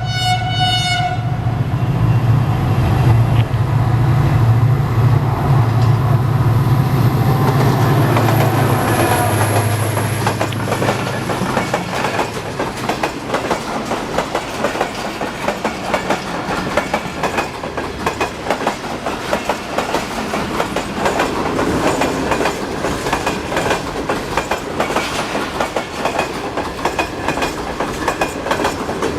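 A passing HGMU-30 diesel locomotive train. A horn blast ends about a second in, the locomotive's engine drones loudly as it goes by, and from about twelve seconds in the carriages' wheels clatter rapidly over the rail joints.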